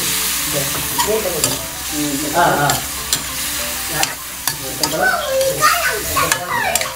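Bullfrog adobo sizzling in a metal wok while it is stirred, the spatula scraping and clicking against the pan again and again over a steady hiss of frying.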